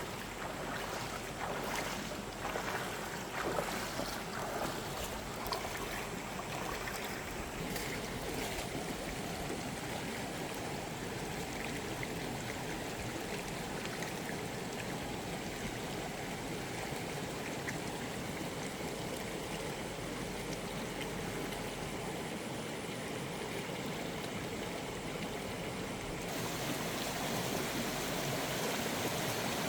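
Steady rush of running water, with a few light knocks in the first several seconds. Near the end the hiss turns abruptly brighter and a little louder.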